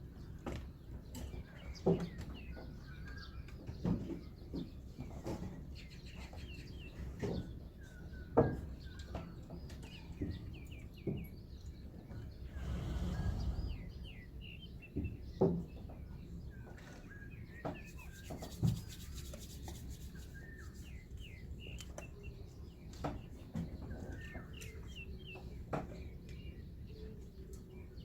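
Small birds chirping and twittering at dawn, with sharp dull thumps every few seconds and a brief rush of noise about halfway through.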